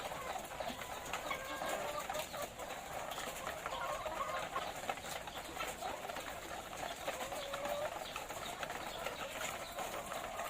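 A flock of layer hens clucking and calling together, a dense, continuous chatter of overlapping calls with scattered small clicks and taps.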